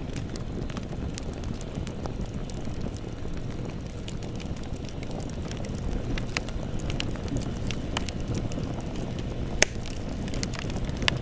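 Campfire burning with a steady low rumble of flames and scattered sharp crackles and pops of wood, the loudest pop about two-thirds of the way in.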